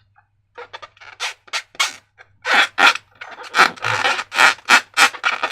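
Slime being squished and worked by hand: a run of short, irregular squishes, coming faster and louder toward the end.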